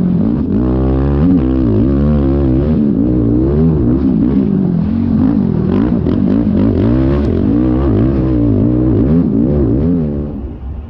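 Yamaha YFZ450R sport ATV's single-cylinder four-stroke engine being ridden hard, revving up and down over and over, its pitch rising and falling about once a second. It drops away near the end.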